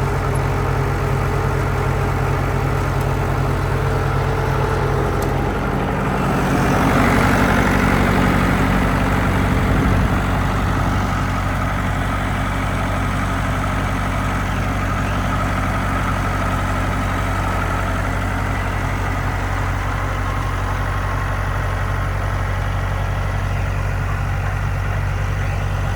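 Massey Ferguson 180's four-cylinder diesel engine idling steadily. It is opened up briefly about six seconds in, louder and rougher, and drops back to a steady idle at about ten seconds.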